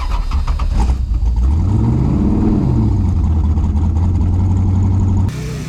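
Drag race car's engine running at a raised idle, revving up once and settling back to a steady fast idle. The idle has been turned up by hand because the throttle cable is broken. There are a few clicks in the first second.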